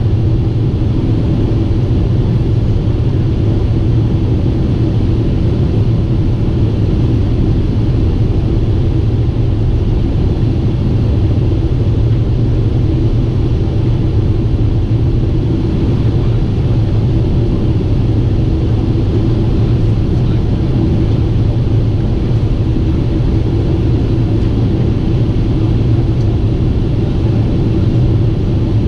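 Steady, unchanging rumble of a Boeing 747-8 airliner in flight on its approach, the low drone of engines and airflow holding an even level throughout.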